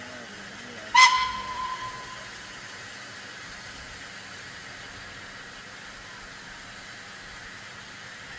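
A short, sharp blast on a steam locomotive's whistle about a second in, dying away within a second or so, over a steady hiss.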